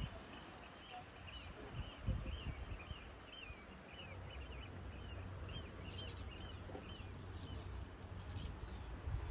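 A small bird chirping over and over, short rising-and-falling chirps about three a second, stopping a couple of seconds before the end. A low rumble runs underneath, with a thump about two seconds in.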